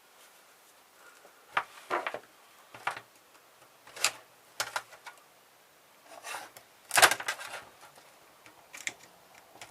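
Irregular clicks, knocks and short rattles of small metal and plastic parts of a car stereo being handled and pulled apart on a work table, the loudest cluster about seven seconds in.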